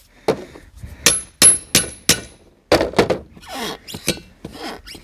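Metal tools striking and prying at a steel wheel rim in an irregular run of sharp knocks, a few of them ringing briefly, as a tractor tire is worked free of its rim.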